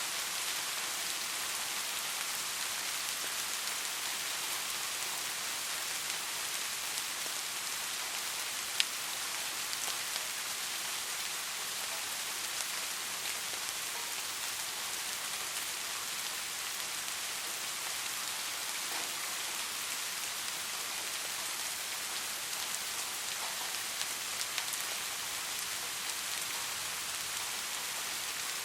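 Steady soft rain falling, an even hiss with scattered drop pattering and one sharper drip about nine seconds in.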